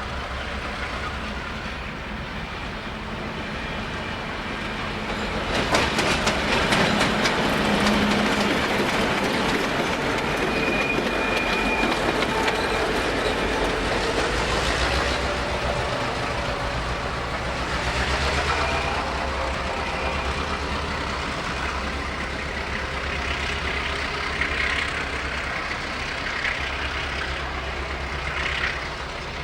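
Diesel locomotive running under load as its train passes, the engine a steady low drone, with wheels clattering over rail joints from about six seconds in and brief high wheel squeals partway through.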